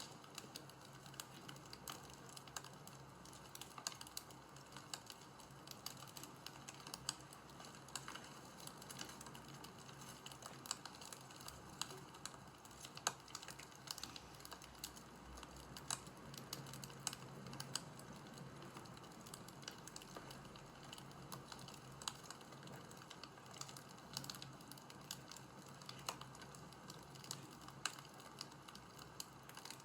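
Faint crackling of a wood fire: irregular small snaps and pops.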